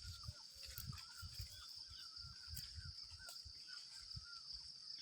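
Great barbet calling faintly, a short hooked call repeated two or three times a second, over a steady high-pitched drone.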